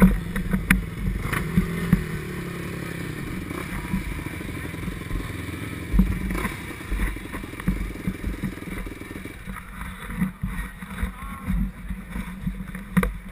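Yamaha YZ125's 125cc two-stroke single-cylinder engine running, picked up by an onboard GoPro, with a noisy wash over it. Frequent short knocks and thumps come through in the second half.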